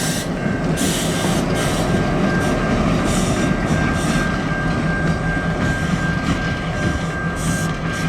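Two CN four-axle diesel-electric locomotives running close by: a steady diesel engine note with a thin, steady high whine over it, and several short hissing bursts.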